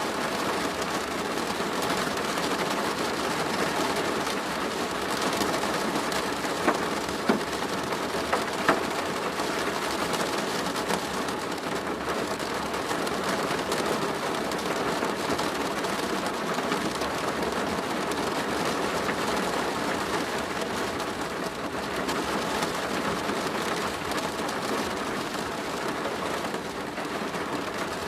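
Steady rain drumming on a plastic roof, with a few sharper, louder drop hits about six to nine seconds in.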